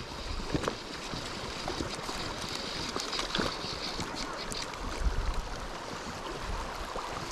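Small creek running over rocks: a steady rush of water, with a few light clicks and knocks and a brief low rumble about five seconds in.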